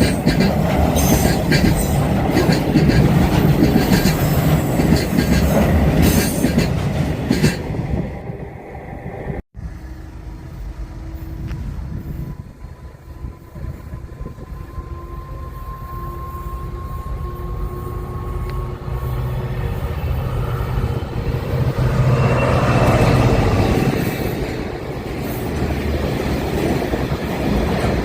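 A train passing close by, its wheels clicking over the rail joints, then a sudden break. After the break comes a quieter stretch with a faint rising whine, and then another train builds to a loud low rumble as it approaches and passes, in the last third.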